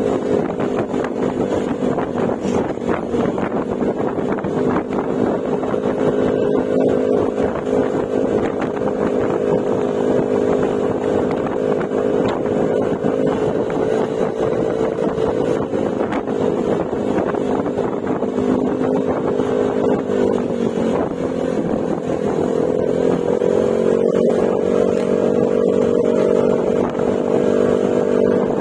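Yamaha Mio Gravis scooter's single-cylinder engine running steadily at cruising speed through an aftermarket Akrapovic exhaust with silencer. The engine note dips briefly about twenty seconds in, then rises and holds at a higher pitch toward the end.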